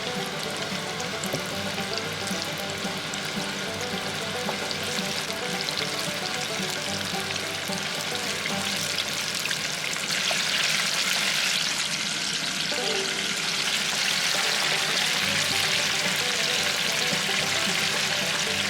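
Breaded chicken pieces frying in hot oil at 350°F, a steady sizzle that grows louder about ten seconds in, over background music.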